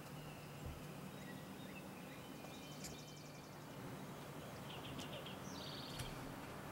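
Quiet outdoor ambience with faint small-bird calls: a short rapid trill about three seconds in and a few more chirps and a trill around five seconds.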